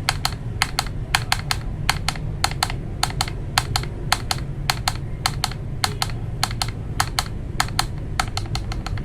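Mechanical keyboard being typed on steadily, a run of sharp key clacks about four or five a second. The reviewer finds its sound hollow, which he puts down to the unmodded case.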